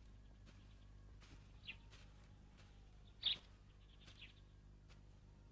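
A few short, high bird chirps over a low steady hum; the loudest chirp comes about three seconds in.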